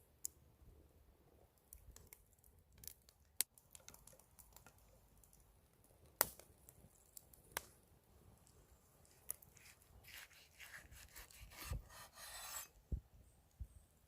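Knife sawing through fried steak, a quick run of rasping strokes a little past the middle, with scattered clicks and knocks of utensils before and after.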